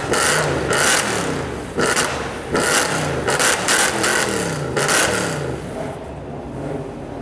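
Tuned performance-car exhaust, either the Capristo-exhausted Audi R8 V10 or the straight-piped Mercedes C63, revving up and down several times with sharp crackles and pops. It settles lower near the end.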